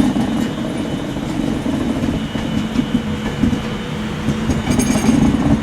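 Passenger train at the platform: a steady low hum with faint higher tones above it, and a couple of brief hissy bursts.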